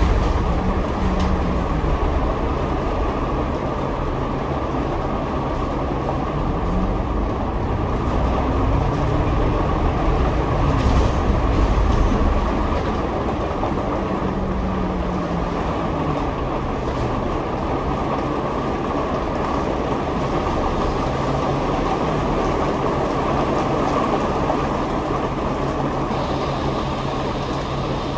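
Double-decker bus running, heard from the upper deck: a steady engine and road rumble. The engine note climbs about six seconds in as the bus speeds up, then eases back down a few seconds later.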